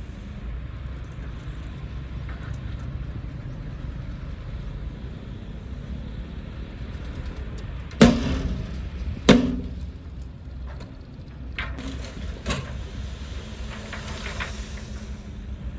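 Diesel engine of heavy earthmoving machinery running steadily, with two loud bangs a little over a second apart about halfway through, then two smaller knocks.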